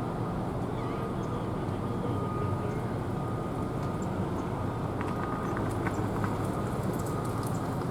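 Steady low outdoor rumble of port and traffic background noise, with a faint thin steady tone above it and a few faint high chirps.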